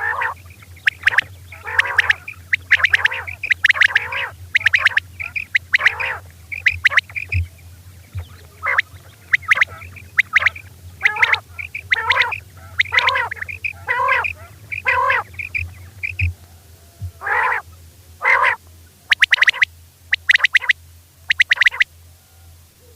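Female common quail calling over and over: short, harsh 'kirak' calls about once a second, some in quick pairs, with a brief pause partway through. A steady low hum runs underneath.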